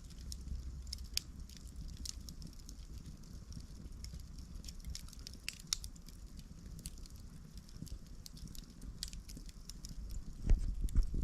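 Campfire burning: irregular sharp crackles and pops over a low steady rumble, with a louder cluster of pops near the end.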